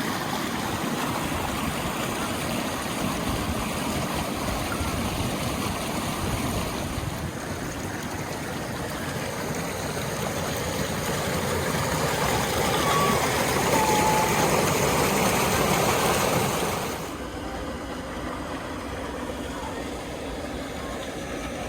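Waterfall rushing, a steady full-range roar of falling water. Near the end it drops to a quieter, duller rush.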